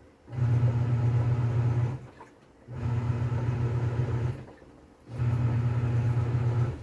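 TCL 7.5 kg top-load washing machine agitating during its wash cycle: the pulsator motor hums in three runs of under two seconds each, with short pauses between them as it reverses direction.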